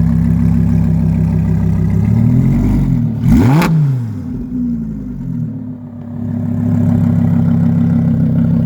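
A 2016 Lamborghini Huracán LP 610-4's V10 with an upgraded exhaust, idling, then one quick rev blip about three seconds in. The pitch shoots up and drops straight back, loudest at the peak. The engine then settles low for a couple of seconds before picking back up to a steady idle.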